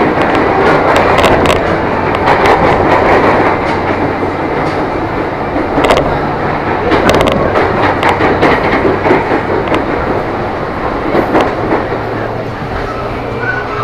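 KRL Commuter Line electric train running, heard from inside the carriage: a loud, continuous rumble of wheels on the track with irregular sharp clicks over the rails and a low steady hum underneath.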